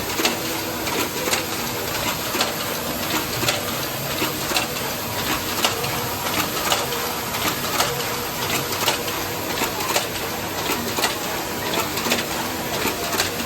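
Automatic can body welding machine running: a steady mechanical noise with a sharp click about once a second, as each can body is cycled through at about 60 cans a minute.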